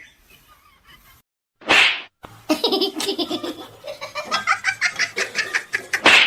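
A person laughing hard in a quick run of ha-ha bursts, after a short, sharp, hissing burst of noise about two seconds in.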